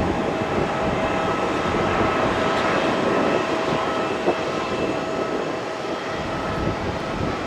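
Jet airliner engines running steadily: a broad rush of noise with a few faint, steady whining tones over it. There is one small click about four seconds in.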